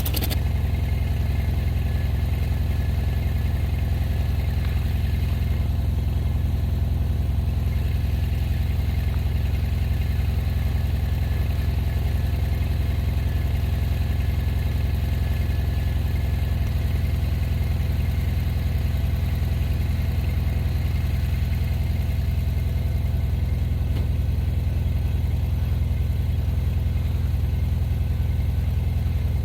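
Vehicle engine running steadily at an even pitch, with no revving.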